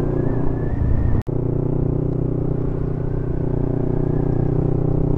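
Motorcycle engine running steadily while under way, with a brief cut-out in the sound just over a second in.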